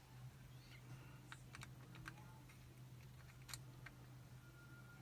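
Faint, scattered small metal clicks of a tensioning tool and pick working inside a Chubb Detector lever lock, about four or five ticks spread irregularly, over a low steady hum.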